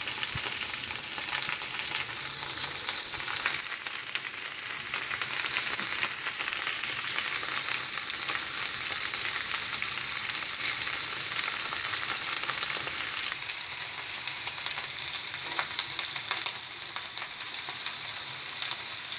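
Cut okra pieces sizzling in hot mustard oil in a shallow pan over a medium flame: a steady frying hiss.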